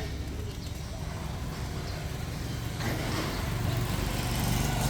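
A motor vehicle engine running nearby, its low hum getting louder in the last second or so as it approaches.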